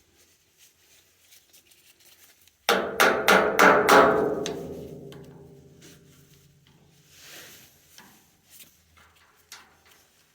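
A quick run of about six sharp metallic knocks, ringing out and fading over about two seconds, then a few faint clicks: metal striking metal while the oil filter bowl on a boiler's oil line is worked loose from its housing.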